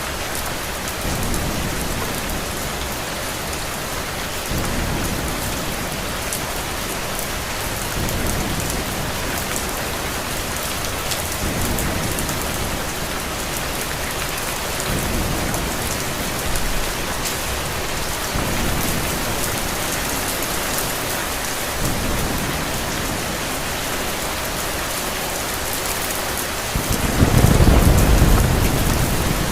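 Steady rain falling, an even hiss, with a low rumble of thunder that swells near the end.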